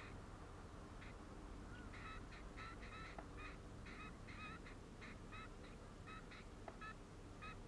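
Birds calling faintly: a rapid series of short, honking calls, several a second, starting about two seconds in.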